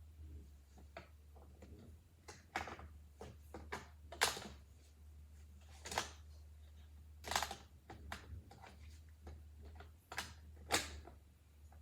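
Irregular clicks and knocks from a Roomba's plastic parts being handled, about seven of them, as its brushes are fitted.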